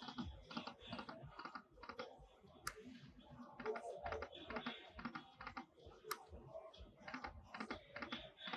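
Faint, rapid, irregular clicking and clatter from a video slot machine during spins, several clicks a second.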